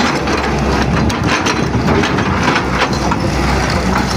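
Tata Hitachi 210 excavator's diesel engine running steadily, with repeated knocks and clatter over it.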